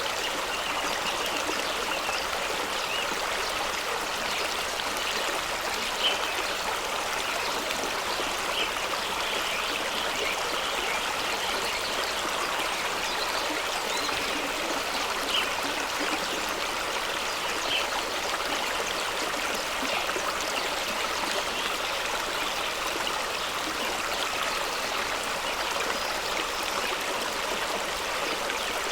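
Fast-running stream tumbling over rocks: a steady, even rush of water with little deep rumble, and a few small splashes and gurgles standing out.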